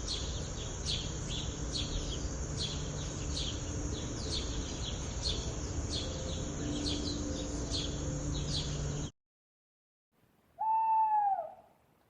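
A bird chirping rapidly and repeatedly, about two short falling chirps a second, over a noisy background; the clip cuts off suddenly, and after a pause comes one louder, rising-then-falling call.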